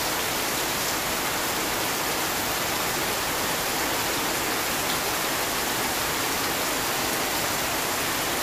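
Heavy rain falling in a steady, even hiss with no change in level.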